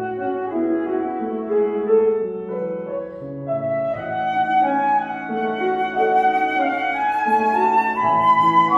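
Concert flute and piano playing together: the flute holds long sustained notes over the piano, its line climbing step by step into a higher register over the second half.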